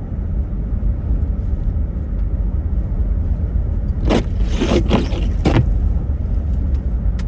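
Steady low rumble of a car driving, heard from inside the cabin. About four seconds in a brief, louder sound lasts around a second and a half.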